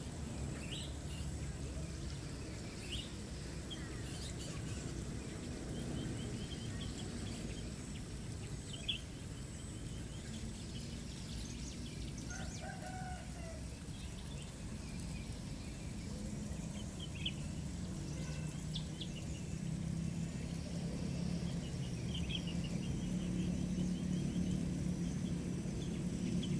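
Birds in an aviary giving scattered short chirps and quick trills, with one lower call near the middle, over a steady low background rumble.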